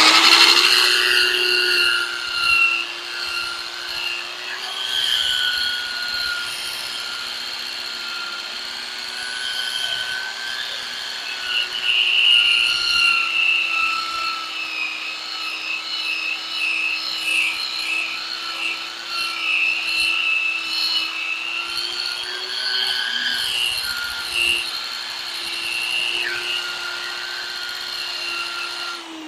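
Power buffing wheel spinning up and then running at a steady speed, its cloth wheel rubbing and polishing carnauba wax onto a wood-and-resin board with a varying scuffing hiss; the motor winds down with a falling pitch right at the end.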